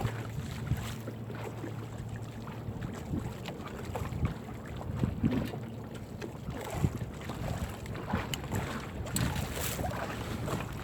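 Crab gillnet being hauled by hand into a small fishing boat, with irregular knocks and rustles of net and crabs against the boat, and wind on the microphone. A low engine hum fades out in the first moment.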